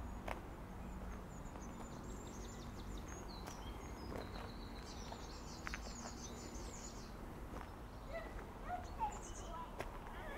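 Small birds singing outdoors, with a rapid high trill in the middle and a few short chirps near the end, over a steady low rumble.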